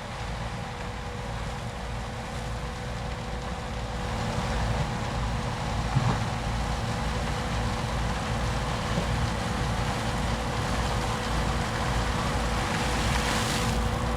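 Holmer Terra Dos T4-40 self-propelled sugar beet harvester working, its engine and machinery giving a steady drone with a constant whine, slowly growing louder. A single knock comes about six seconds in, and a rush of hiss rises near the end.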